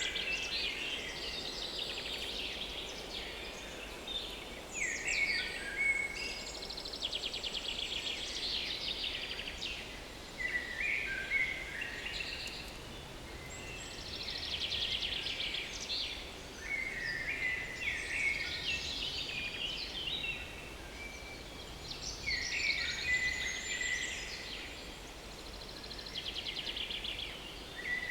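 Small woodland songbirds singing, a fast trilled phrase that drops to lower notes at its end and comes back every few seconds, over a steady low background rush.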